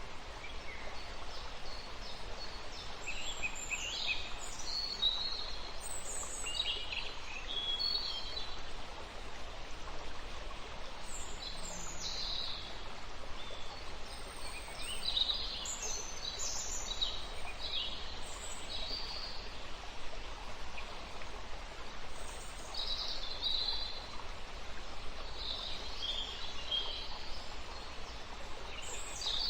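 Small birds chirping, many short high calls coming one after another, over a steady background hiss.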